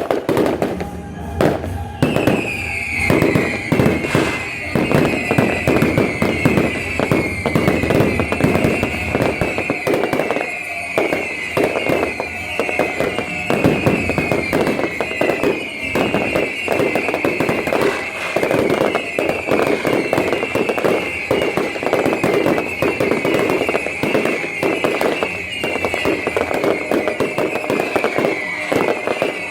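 Fireworks display in a dense barrage of rapid bangs and crackles. From about two seconds in, a high whistle falls in pitch over and over.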